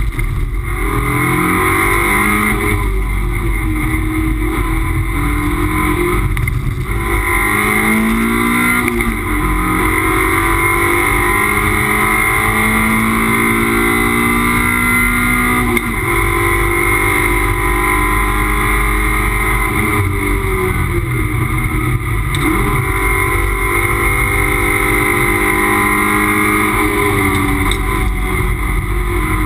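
Toyota MR2 race car's engine heard from inside the cabin, revs climbing and dropping again and again as it accelerates, changes gear and slows for corners, over a steady hiss.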